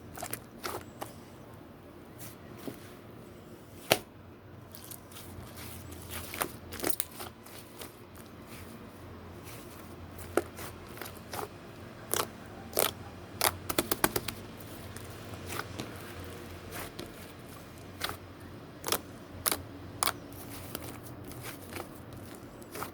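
Slime being mixed and pressed by hand, giving irregular sharp clicks and pops, with a quick run of clicks about halfway through.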